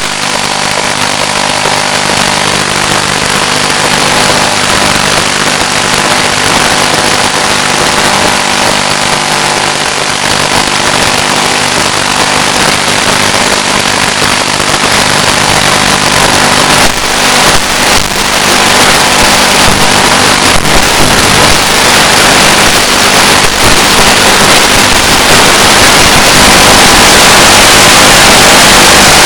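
Loud, steady hiss and static with faint constant hum tones, growing a little louder toward the end, heard on the audio channel of an analog 1.3 GHz FPV video link.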